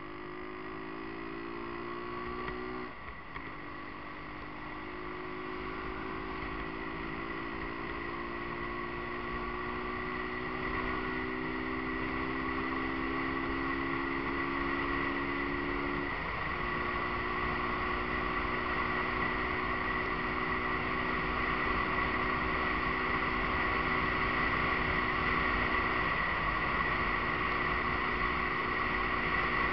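Cruiser motorcycle engine heard from the rider's seat while accelerating, its note climbing steadily and breaking briefly for gear changes about 3 and 16 seconds in, with another short dip near the end. Wind rush grows louder as the speed builds.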